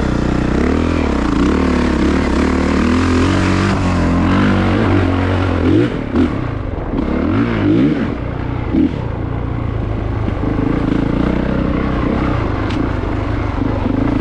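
2022 Honda CRF450RX's single-cylinder four-stroke engine running under changing throttle on a dirt trail, its pitch rising and falling repeatedly, with a few brief louder bursts about halfway through before it runs more steadily.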